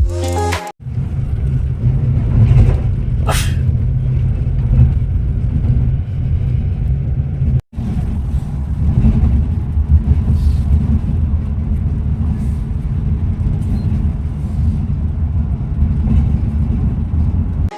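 Scania Metrolink multi-axle coach on the move: a steady low rumble of engine and road. There is a brief hiss about three seconds in, and two sudden short dropouts.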